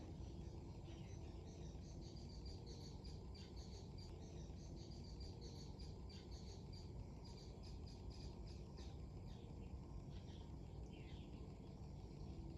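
Faint, irregular high chirping of small birds over a steady low rumble of strong wind on the microphone.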